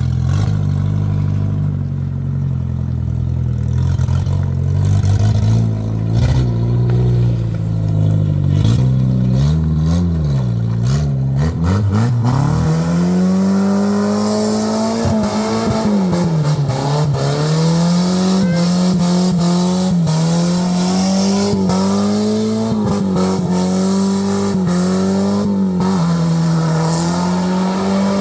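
Suzuki Escudo ute's engine revving hard during skids, its pitch rising and falling. For the first twelve seconds or so the revs are lower and unsteady; after that they are held high and swing up and down again and again, with a hiss over the top.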